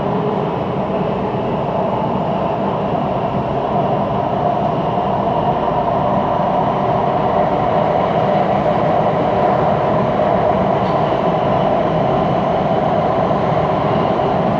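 Siemens Inspiro metro train running at speed, heard from inside the carriage: a steady rolling rumble of the wheels on the rails with a constant hum over it. It carries the unusual rolling noise that this carriage is noted for.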